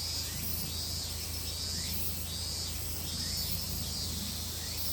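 Outdoor ambience of insects chirping steadily, a high chirp repeating about every half second to second, over a steady low hum.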